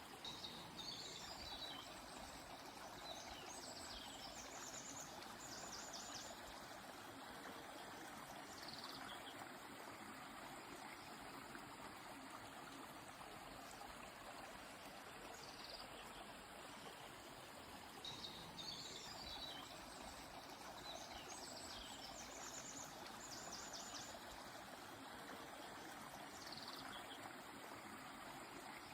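A river flowing steadily, with birds singing short high chirping phrases over it: a cluster of calls about a second in, single calls around nine and fifteen seconds, and the same cluster again from about eighteen seconds.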